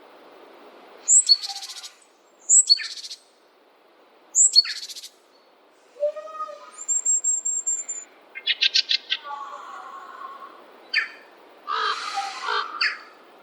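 Several songbirds singing. One repeats a short high phrase that drops into a trill three times in the first five seconds; after that come other chirps, a high whistle, a fast trill and a dense burst of song near the end.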